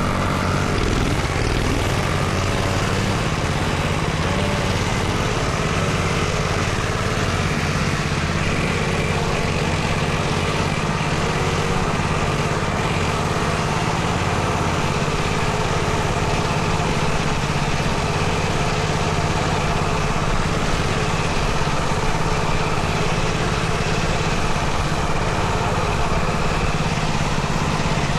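Dirt bike engine running steadily and close, holding an even speed with little change in pitch.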